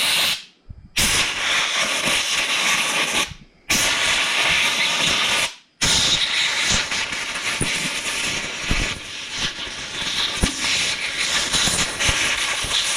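Compressed air hissing from an air nozzle in four long blasts, the last one running about seven seconds, blowing cleaner and loosened gunk out of small-engine carburetor parts. Light knocks of the parts being handled sound through the last blast.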